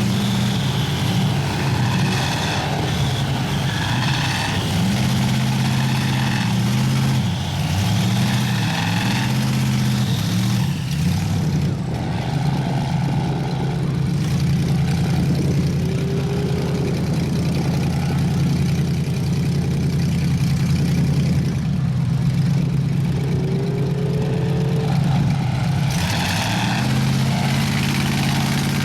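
Big mud truck engine running hard, revving up and down several times in the first ten seconds, then holding a steady high rev before the note changes again near the end.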